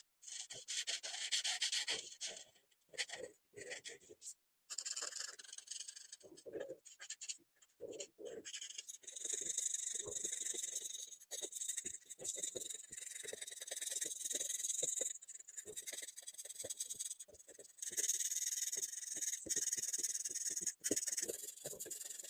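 Felt-tip markers rubbing across sketchbook paper in runs of quick back-and-forth colouring strokes, with short pauses between runs.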